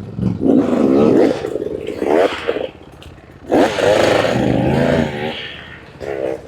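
Dirt bike engine revving hard in repeated bursts, its pitch swooping up and down, with short lulls between the bursts.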